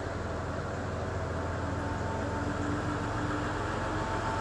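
Tourist train's locomotive engine running with a steady low rumble as the train rolls slowly onto the river bridge, growing gradually louder as it approaches, with faint steady higher tones over it.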